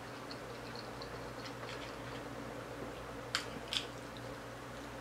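Quiet chewing of a chicken taco, with two short sharp clicks a little after three seconds in, over a steady low hum.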